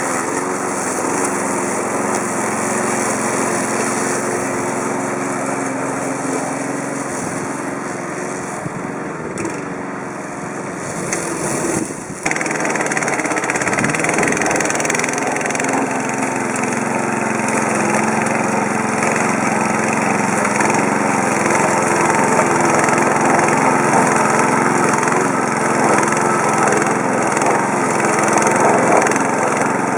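Self-propelled walk-behind petrol lawn mower engine running steadily. There is a short dip about twelve seconds in, after which it runs a little louder.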